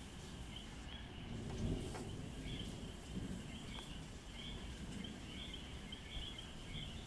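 Distant thunder rumbling low and continuously, swelling a little about two seconds in, over a steady night chorus of short, high, repeated chirps.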